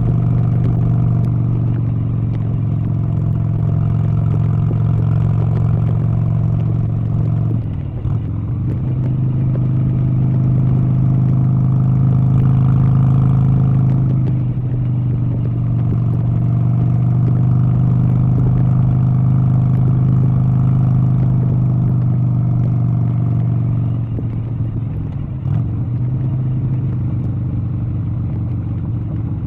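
An engine running steadily, its even hum broken briefly about eight seconds in and again near the end.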